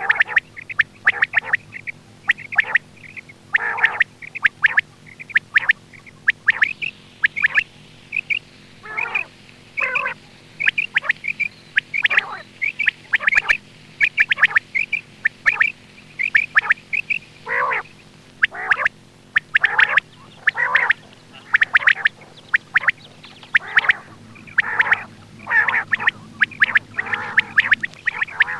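Quail calling over and over in short, sharp calls, often in quick pairs, about one to two a second: a recording of quail voices played to lure quail for hunting. A faint steady hum runs underneath.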